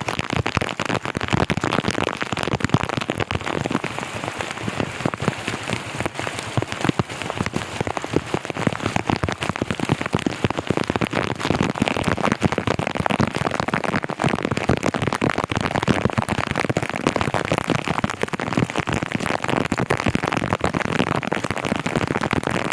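Heavy rain falling steadily, a dense, even hiss of countless drops striking the ground and surfaces.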